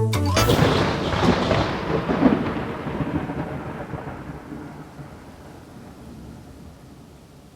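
A sudden loud rushing rumble, like rolling thunder, that breaks in about half a second in and slowly dies away over the next several seconds.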